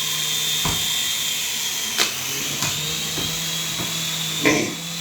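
Small RC toy helicopter's electric motor and rotor blades whirring in a steady high-pitched buzz while it hovers, with a few short knocks, the sharpest about two seconds in.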